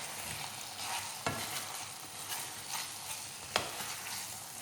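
Chicken in a thickened soy and garlic sauce sizzling and bubbling in a pan while a spatula stirs it, with a couple of sharp knocks of the spatula against the pan.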